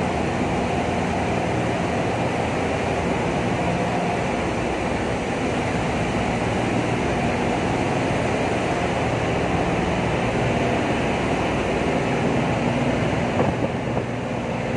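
Steady, loud drone of machinery in a crude oil tanker's engine room, a dense roar with a faint steady hum running through it.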